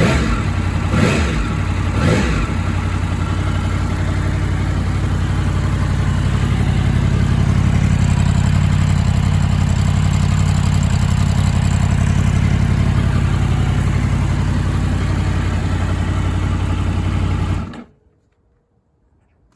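Yamaha MT-10's crossplane inline-four engine given two quick blips of the throttle, then idling steadily, then switched off; the engine note cuts off suddenly near the end.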